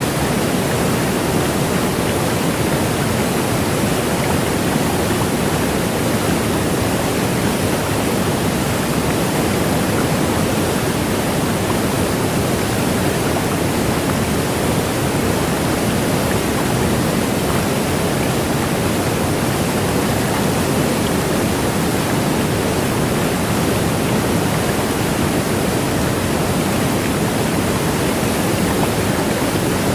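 Waterfall pouring: a steady, loud rush of falling water with no change throughout.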